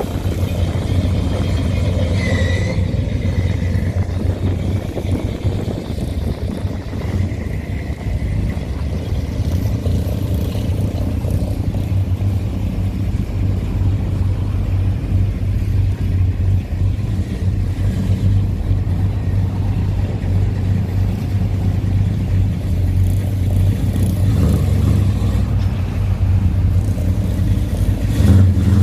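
Hot rod engines rumbling steadily as cars drive slowly past, a loud continuous low rumble with a brief high chirp about two seconds in.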